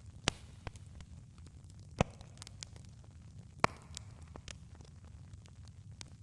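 Campfire wood crackling, with scattered sharp pops; the loudest come about 2 and 3.7 seconds in. Under them is a steady low rumble.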